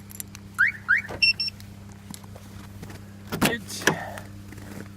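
Car alarm being disarmed: two quick rising chirps, then two short beeps. About three and a half seconds in comes a louder scraping clatter, over a steady low hum.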